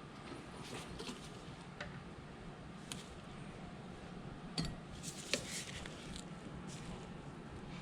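Scattered light clicks and a few sharper knocks of metal parts and tools being handled, over a steady background rumble.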